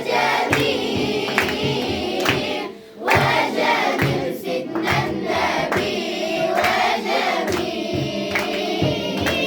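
A group of children singing an Islamic devotional song (inshad) together, over a steady percussive beat of about one stroke a second. The singing breaks off briefly about three seconds in, then resumes.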